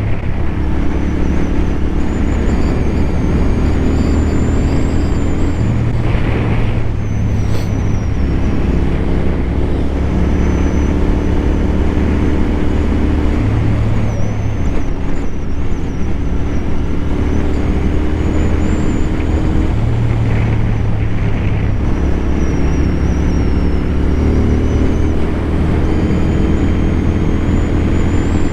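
Royal Enfield Continental GT 650 parallel-twin engine running at cruising speed under wind rush, as heard from the rider's helmet; the engine note shifts a few times with changes of throttle. A faint high whistle wavers above it, the helmet whistling at speed that the microphone picks up.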